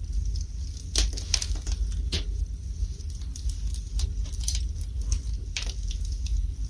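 Wood fire burning in a fireplace: irregular crackles and pops over a low steady rumble, with the sharpest pops around one and two seconds in and again near the end.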